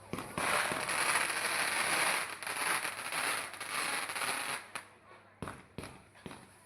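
Fireworks going off: a dense crackling for about four seconds, then a few separate bangs near the end.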